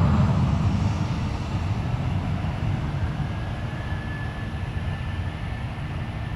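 Jet airliner's engines rumbling on takeoff and fading steadily as it climbs away, with a faint thin whine coming in about halfway.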